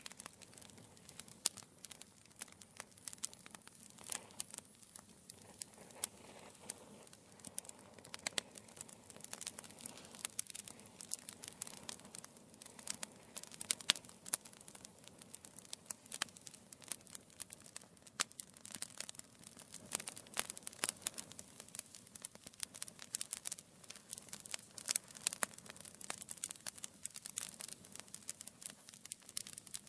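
Wood fire crackling in a fireplace: dense, irregular snaps and pops of burning logs over a soft hiss.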